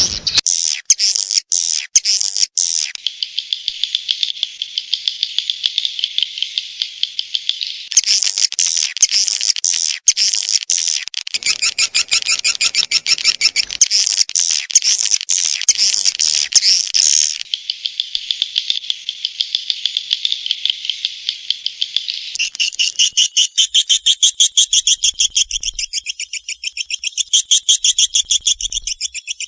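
Edible-nest swiftlet calls: a swiftlet lure track of high, rapid twittering and chirp trains, the kind of calling sound played to draw swiftlets to a nest house. The pattern changes in sections, with denser, louder trills from about 8 to 17 seconds and fast, evenly pulsed chirps from about 22 seconds on.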